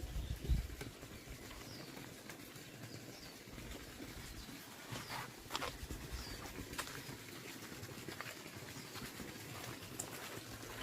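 Outdoor ambience with faint, short bird chirps scattered throughout, a few low thumps in the first second and several sharp clicks about midway.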